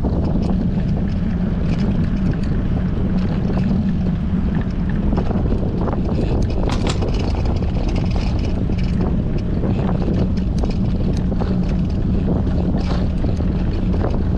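Wind buffeting a GoPro's microphone on a moving bicycle in strong wind: a steady loud rush with a constant low hum underneath and a few light ticks.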